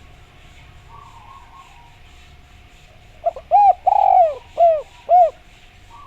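Spotted dove (derkuku) cooing: one phrase of four arched coos about three seconds in, the second one longer than the rest, over a faint steady tone.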